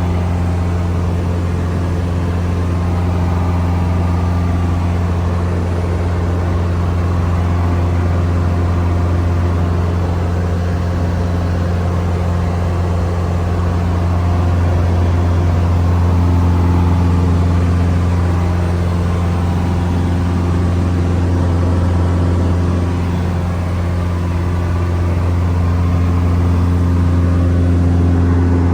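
Cessna 162 Skycatcher's four-cylinder Continental O-200 engine and propeller droning steadily at cruise power in flight, a loud low hum that swells slightly a couple of times.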